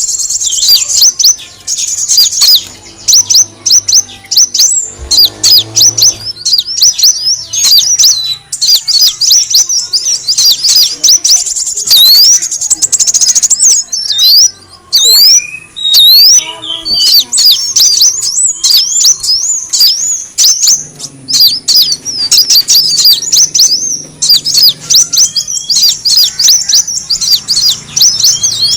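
Kolibri wulung sunbird calling: rapid, high-pitched twittering chirps and quick sweeping notes in dense runs, broken by a couple of short pauses. It is a lure call that the uploader gives as a female calling the male.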